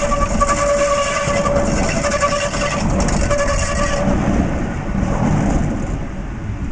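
Tram running past with a steady pitched whine over a rumble. The whine stops about four seconds in, and the rumble dies away toward the end.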